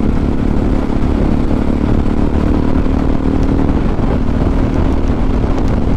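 Motorcycle engine running steadily while riding, heard through a helmet-mounted microphone with heavy wind rumble. Faint occasional taps come from the microphone wire knocking against the helmet.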